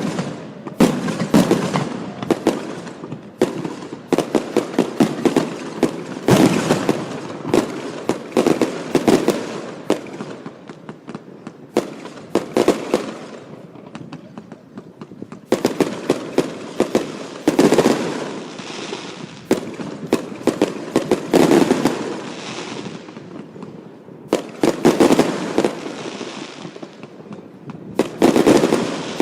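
Aerial fireworks display: volley after volley of shell bursts and rapid crackling, each flurry of bangs followed by a fading crackle before the next wave. The loudest clusters come about every three to four seconds.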